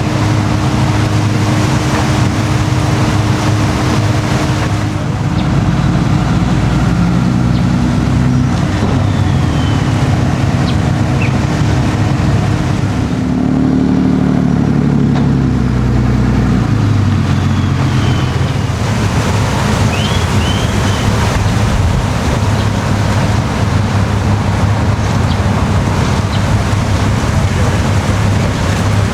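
Motor engines running steadily; about halfway through one engine revs up, then settles back down. A few faint high chirps come near two-thirds of the way in.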